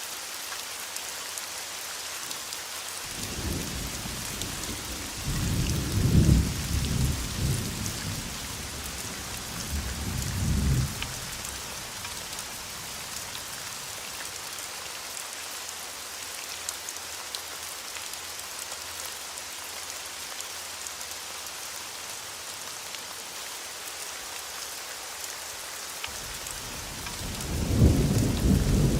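Thunderstorm: steady heavy rain hiss, with rolling thunder rumbling from about three seconds in to about eleven seconds, and another roll of thunder building near the end.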